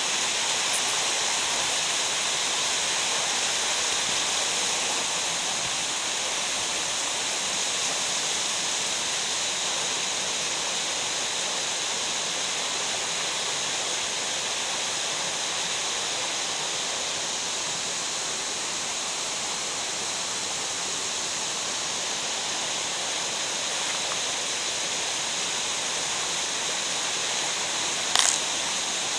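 Steady rushing of water in a mountain gorge, an even roar with no change. A single brief sharp click near the end.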